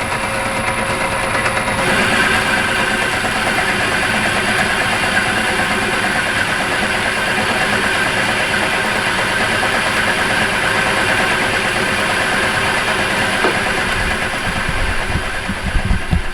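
Myford Super 7B lathe running steadily under power. Its motor and drive make a continuous whirring hum that gets a little brighter about two seconds in, with a few low thumps near the end.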